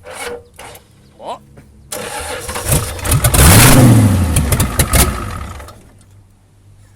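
A worn 7.3 IDI diesel V8 being started: short bursts in the first second, then about two seconds in it catches, revs up loudly and dies back down within a few seconds. The engine has such heavy blow-by that, by the owner's account, as much exhaust comes out of the crankcase breather as out of the exhaust.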